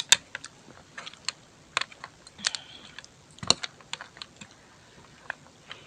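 Close-up eating sounds: chewing with irregular wet clicks and small crackles, the loudest click about three and a half seconds in.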